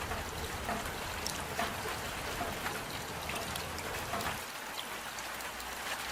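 Steady rain with water trickling and pouring, and many separate drops splashing through it.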